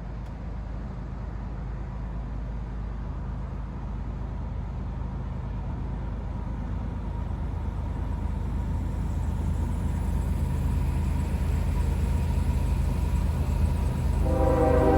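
CSX GE ES44AH diesel locomotive approaching, its engine rumble growing steadily louder. Its air horn starts sounding again near the end.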